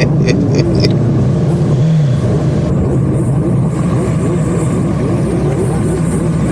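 Motorcycle engine running steadily at low revs while riding slowly, with road and wind noise.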